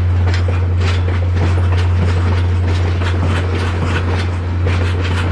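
VIA Rail Canada passenger train going by, its wheels clicking over the rail joints in a quick, uneven rhythm over a steady low rumble.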